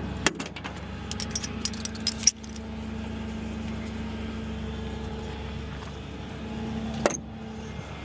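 Metal clinking and rattling for about two seconds, ending in a sharp bang, over a vehicle engine idling. After the bang a steady engine hum with a held tone runs on, with a single click about seven seconds in.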